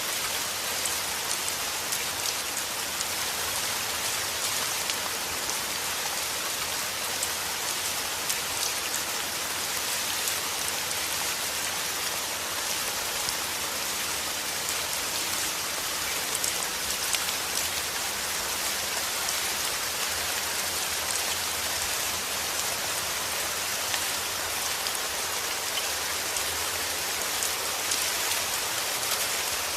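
Heavy rain falling steadily, a dense hiss of drops with fine ticks of individual drops hitting a surface.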